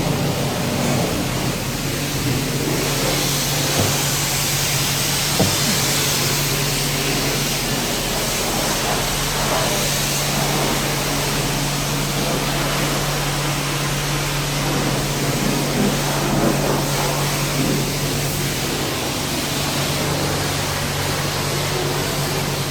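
Self-service car wash high-pressure spray wand spraying a car in a steady hiss, with the bay's pump giving a constant low hum underneath.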